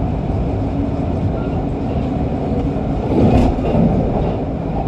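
MRT Kajang Line train running at speed between stations: a steady rumble of wheels on rail, with a brief louder swell about three seconds in.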